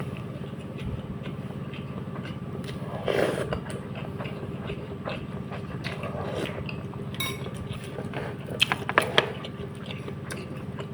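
Close-up mouth sounds of a person eating a soft braised fish head: chewing and smacking, with a louder noise about three seconds in and a quick run of sharp clicks near the end, over a steady low hum.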